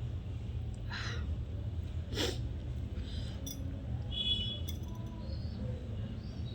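Eating sounds: chewing with a few short noisy bursts and light clinks, over a steady low hum.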